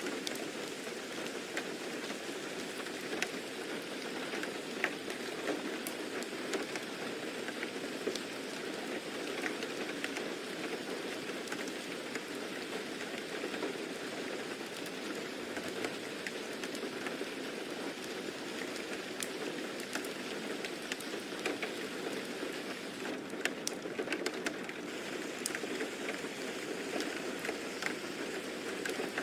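Steady rain falling on a surface: an even hiss with scattered sharp drop ticks, a little denser about two-thirds of the way through.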